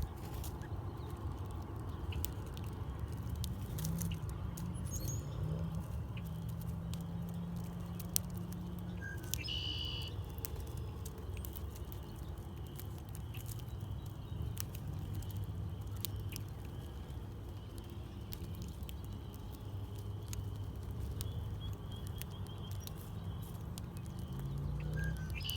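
Small birds at a backyard feeder: scattered light clicks and taps as they peck at seed, with a short high chirp about ten seconds in and another near the end, over a low steady rumble.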